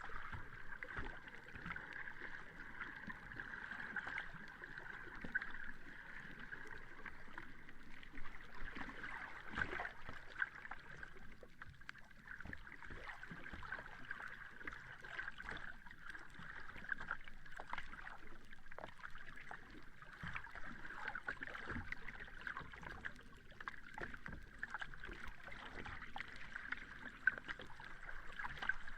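Sea water washing and lapping on a beach: a steady wash with many small splashes and crackles throughout.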